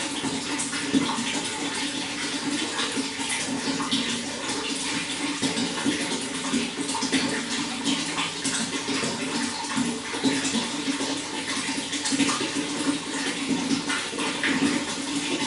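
Running water flowing steadily, with a constant rush and many small splashes and gurgles.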